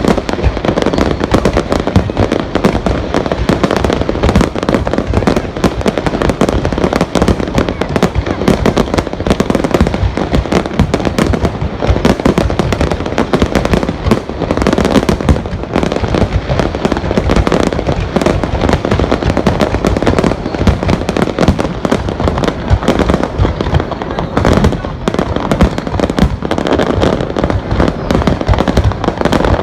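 Fireworks display going off in a dense, unbroken barrage of rapid, overlapping bangs.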